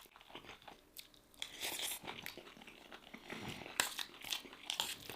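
Close-miked eating sounds: a person chewing and biting food, with irregular crunches, a few sharper ones in the second half.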